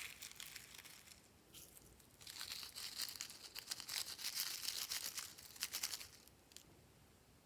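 Faint, sticky crackling of slime being squeezed and stretched by hand, with quick small pops and ticks. It sets in about two seconds in and fades out near the end.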